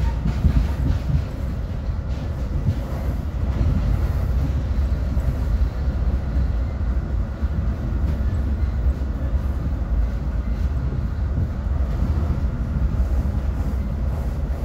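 Metra commuter train running at speed, heard from inside the passenger car: a steady low rumble of the wheels on the rails.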